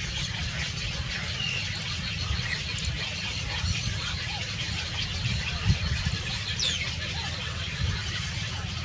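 Outdoor ambience: a steady low rumble with scattered faint, high bird chirps, and a single knock about two-thirds of the way through.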